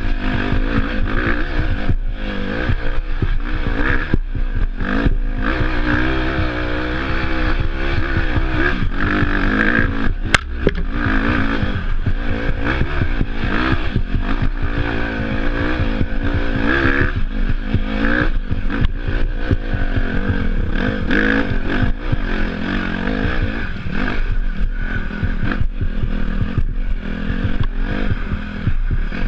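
Dirt bike engine running while being ridden off-road, its pitch rising and falling with the throttle, over wind noise and frequent short knocks.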